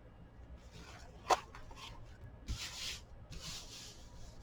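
Paper being handled and rubbed on a tabletop: a sharp tap about a second in, then a few soft brushing strokes.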